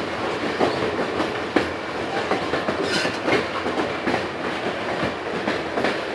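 Passenger train car rolling along the track, heard from on board: a steady rumble with the wheels clicking irregularly over the rail joints.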